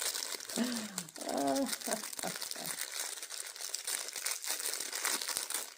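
Crinkling and rustling of material being handled by hand, likely plastic packaging or sticker sheets, running on with small crackles. About half a second to two seconds in there is a short wavering wordless vocal sound.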